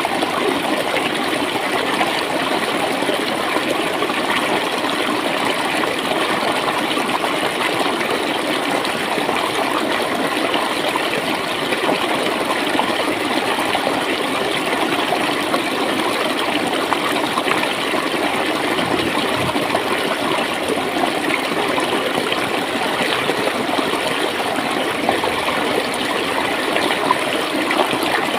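Small stream of clear water flowing and gurgling steadily over stones.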